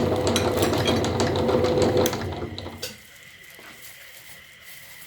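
Electric meat grinder running with a steady motor hum and crackling as it grinds a snack. Its sound winds down and stops about two to three seconds in.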